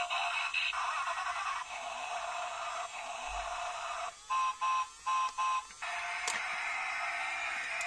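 Battery toy police car's electronic sound effects from its tiny speaker: a run of chiming electronic sound, then four short beeps, then more electronic sound.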